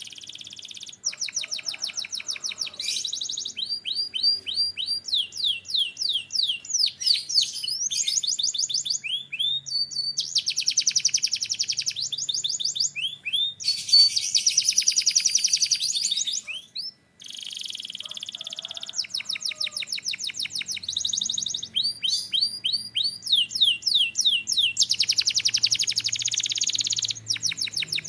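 Domestic canary singing: fast rolling trills and runs of repeated notes, switching to a new phrase every second or two. There is a brief pause about 17 seconds in.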